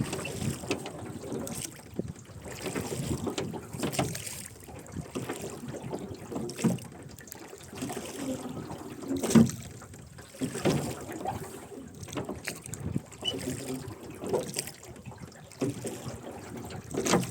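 Rowboat oarlocks creaking and oars splashing as the boat is rowed, a stroke every couple of seconds.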